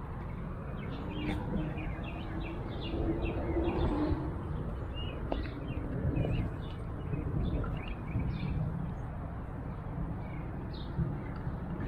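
Small birds chirping in quick, repeated short notes throughout, over a steady low background rumble.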